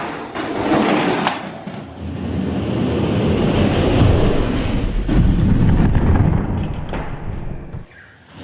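Die-cast toy monster trucks rolling down a race track. Sharp clattering knocks in the first second or so give way to a continuous rolling rumble of wheels on the track, which dies away near the end.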